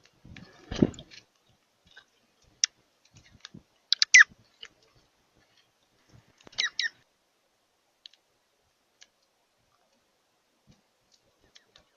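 Bird calls: a few short high chirps that fall in pitch, about four seconds in and again a little after six seconds, among scattered sharp clicks. A dull thump comes just under a second in.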